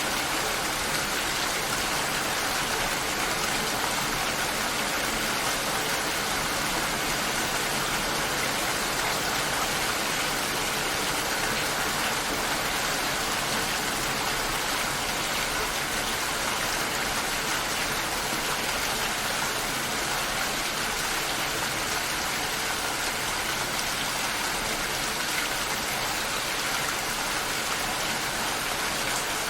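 Steady rain shower: an even, unbroken hiss of falling rain with no single drops standing out.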